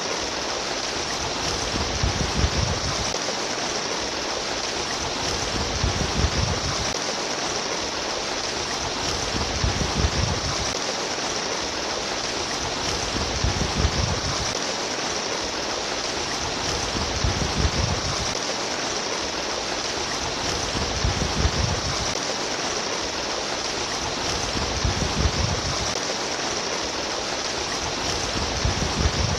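Trickling, babbling water running steadily, with a low rumbling swell that recurs about every four seconds.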